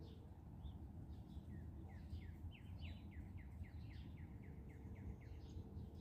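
A songbird singing a quick run of about a dozen down-slurred notes, roughly four a second, for about three seconds, with a few other scattered chirps. Underneath is a faint, steady, low background rumble.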